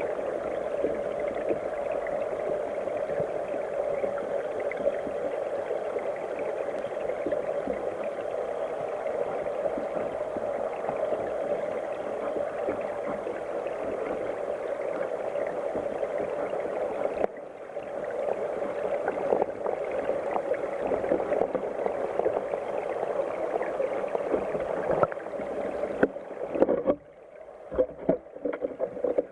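Water of a headwater mountain stream rushing and gurgling steadily. Near the end the rush falls away into separate gurgles and splashes.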